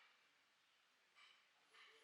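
Faint dog barking: two short barks in the second half.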